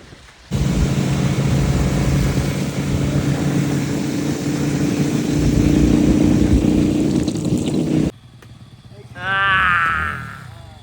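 Motorcycle engine running steadily while riding, with heavy wind rush; it starts and cuts off abruptly about eight seconds in. Near the end a brief wavering, warbling pitched sound.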